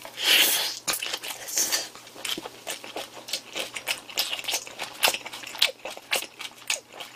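Close-miked chewing of a large mouthful of boiled pork wrapped in kimchi, with a loud bite in the first second and then many short clicks and smacks of the jaw and lips.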